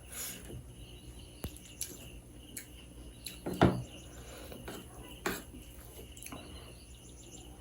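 Eating sounds: scattered clinks and taps of utensils against dishes, with the loudest clatter about three and a half seconds in and another a couple of seconds later.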